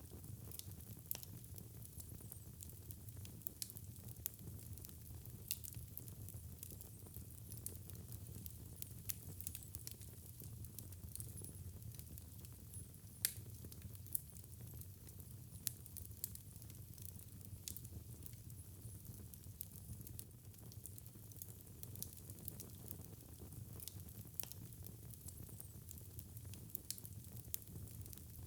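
Fireplace fire crackling: irregular sharp snaps and pops over a low, steady rumble of flame, with one louder pop about 13 seconds in.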